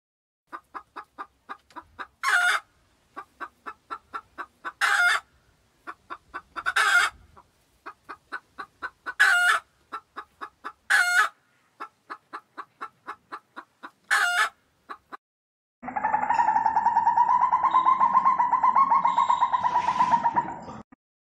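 Chicken clucking in quick, even runs of about four to five clucks a second, each run ending in a louder drawn-out squawk: a hen's cackle, repeated six times. About sixteen seconds in, a different sound takes over: a continuous, fast-pulsing buzzy trill for about five seconds.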